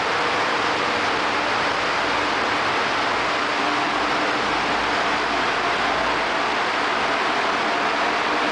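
Ship's engine room machinery running, a loud, steady noise with a couple of faint steady tones underneath.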